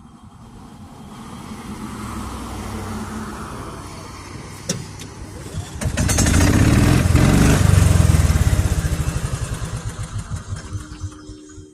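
A motor vehicle engine passing by, growing louder, loudest about six to eight seconds in with a pulsing beat, then fading away.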